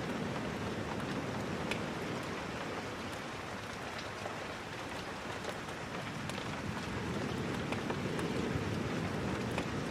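Steady rain falling, with scattered sharp ticks over the even hiss.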